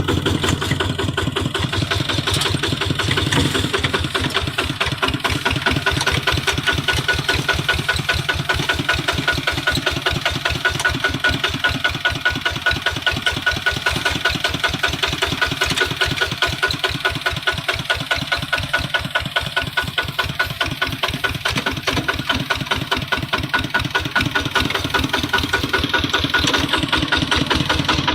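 Kubota RT155 single-cylinder diesel on a two-wheel hand tractor, running steadily with an even, rapid diesel knock of firing strokes.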